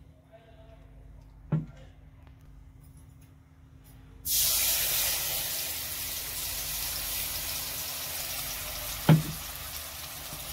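Food dropped into hot oil in a wok starts sizzling suddenly about four seconds in, a dense steady frying hiss that eases off a little. A sharp knock comes a second and a half in, and a louder one about nine seconds in.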